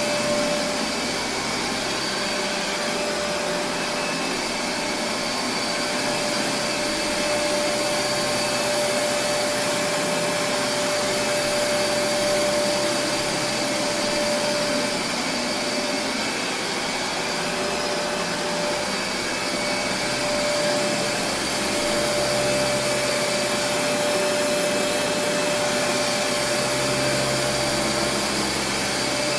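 Kenmore Progressive DirectDrive upright vacuum cleaner running steadily: a rush of air with a held whining tone over it. It has no belt; the brush roll is turned by a motor inside the roller.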